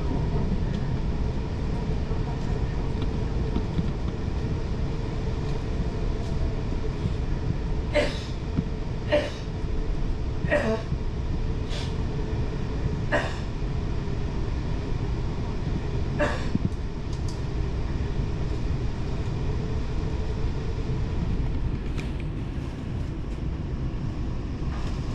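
Train running: a steady low rumble, with several sharp clacks coming about once a second or so between roughly eight and sixteen seconds in.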